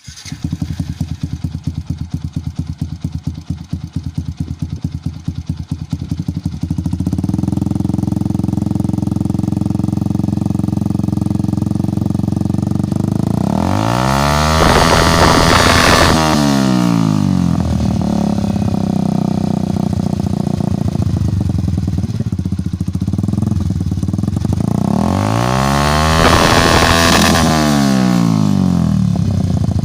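Motorcycle with an aftermarket CHA Silver racing exhaust idling. The idle pulses unevenly at first, then about seven seconds in it becomes steadier and louder. The throttle is blipped twice, once around the middle and once near the end, each rev rising and falling back to idle over a few seconds.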